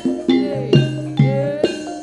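Gamelan ensemble playing: struck bronze keyed and gong instruments ring out on a steady beat of about two strokes a second, each note ringing on, with drum strokes underneath.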